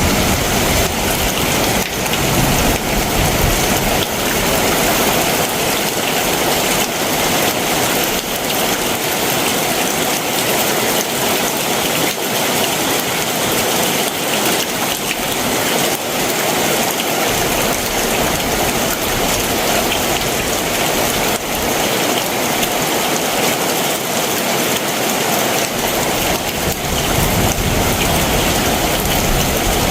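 Heavy summer monsoon downpour, a dense steady hiss of rain on surfaces. A low rumble fades away over the first few seconds and comes back in the last few seconds.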